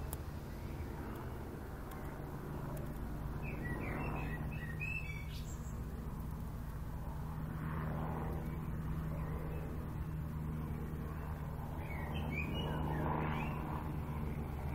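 Small birds chirping in the background: two short bursts of chirps, about four seconds in and again near the end, over a steady low hum.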